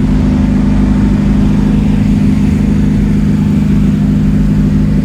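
Car engine idling steadily and loudly at close range, its pitch holding flat with no revving.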